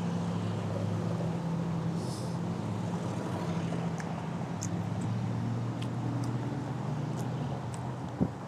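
An engine idling with a steady low hum, and a few faint clicks and taps over it.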